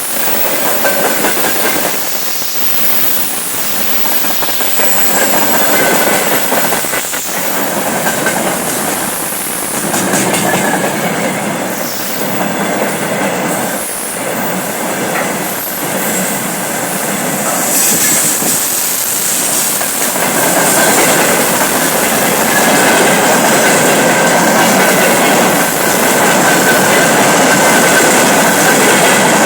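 Freight train hauled by a VL11 electric locomotive running past close by: a steady loud rumble of wagons, with wheels clattering over rail joints and a thin wheel squeal. It gets louder in the last third.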